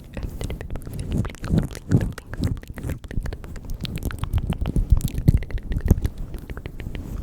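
Close-miked ASMR mouth sounds: a dense run of wet clicks and smacks over soft low puffs close to the microphone.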